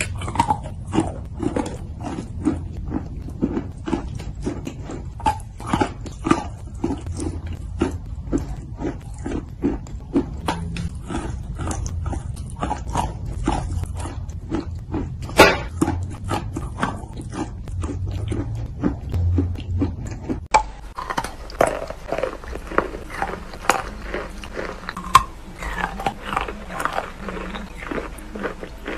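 Close-miked chewing and crunching of chalk coated in clay paste: many irregular crunching bites, a few every second, with one especially sharp crack about halfway through. About two-thirds of the way in, the recording changes to a brighter crunching of a plain gray chalk piece.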